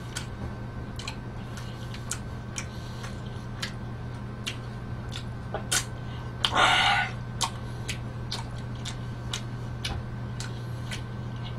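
Close-miked chewing of a big mouthful of pizza: soft wet mouth clicks about twice a second, with one brief louder hiss a little past the middle, over a steady low hum.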